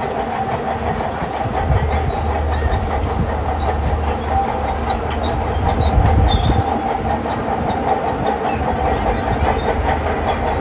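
Shantui crawler bulldozer working: the diesel engine runs steadily under a constant clatter of its steel tracks, and a low engine rumble swells for several seconds in the middle.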